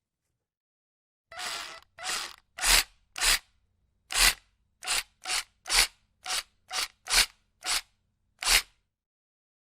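A hand tool worked in a series of about thirteen short, sharp cutting or scraping strokes, unevenly spaced, beginning just over a second in and stopping about a second before the end.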